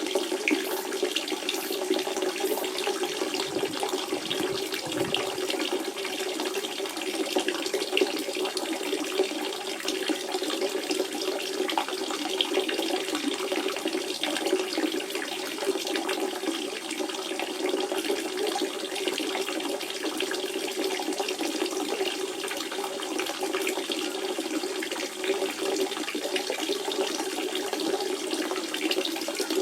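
Natural spring water running in a steady, unbroken flow.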